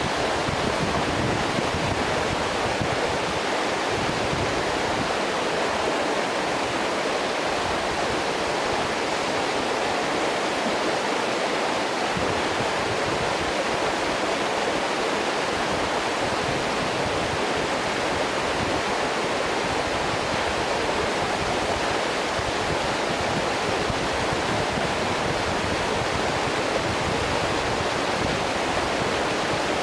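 A waterfall with water pouring and splashing in a steady, unbroken rush.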